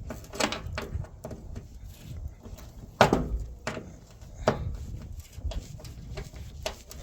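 Irregular clinks and knocks of hand tools on bolts and sheet metal while a cover is being unbolted, the loudest knock about three seconds in.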